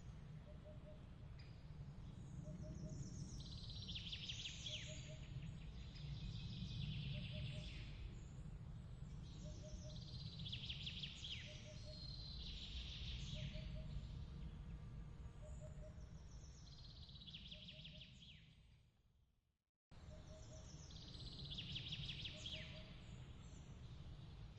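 Nature ambience bed: bursts of bird chirps and trills over a steady low rumble, with a soft short double chirp repeating about every second and a half. Near the end the whole track fades out to silence and then restarts abruptly, as at a loop point.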